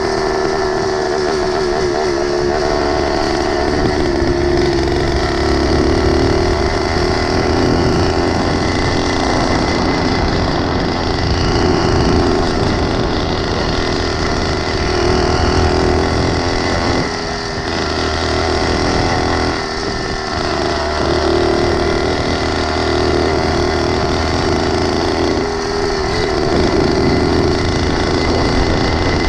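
Small engine of a motorized bicycle running steadily under way, with a buzzing note, easing off briefly twice in the second half.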